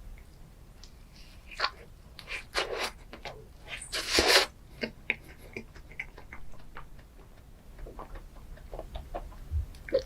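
Close-miked eating sounds of chocolate ice cream desserts: wet chewing and mouth clicks, with a louder crackling bite about four seconds in.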